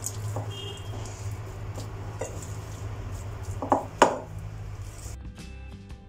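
Scattered sharp clinks and knocks of hard objects being handled over a steady low hum, two louder knocks about four seconds in; soft music comes in about five seconds in.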